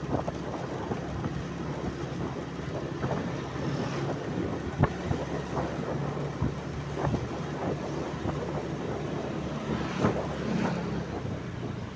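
A vehicle running steadily with a low hum, under wind noise on the microphone, with a few scattered knocks.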